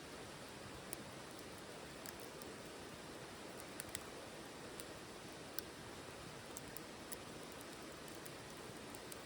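Wood fire burning in a titanium wood stove: a steady soft hiss with sharp crackles and pops at irregular moments, about one or two a second.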